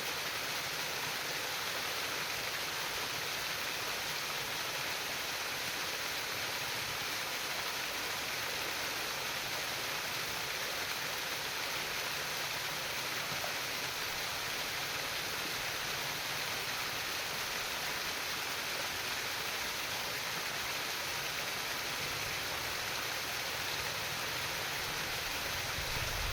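Steady babbling and splashing of water flowing in a stream.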